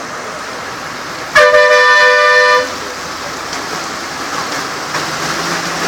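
A vehicle horn sounds once, a two-note blast of about a second, starting a little over a second in. Steady traffic noise runs underneath.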